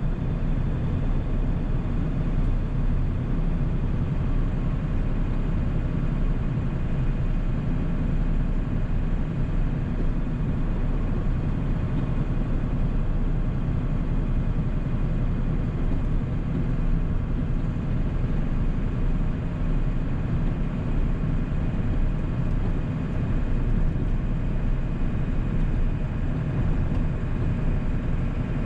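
1997 Ford 7.3 L Powerstroke turbodiesel V8 running steadily while the truck is driven, mixed with road noise.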